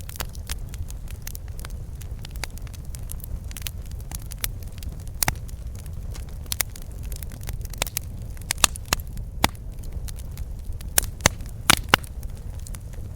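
Campfire burning: wood crackling with irregular sharp pops over a steady low rumble of the flames, the loudest pops clustered a little past halfway and near the end.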